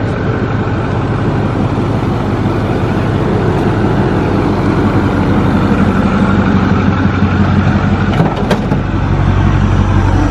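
A motor vehicle engine running steadily with a low hum, with a couple of brief knocks a little after eight seconds in.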